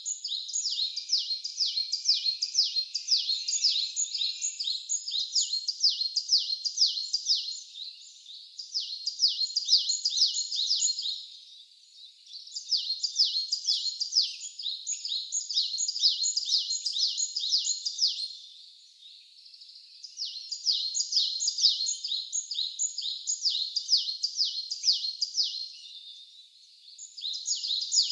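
An animal calling: a rapid series of short, high, falling chirps, about four a second, kept up in long runs of several seconds with three brief pauses.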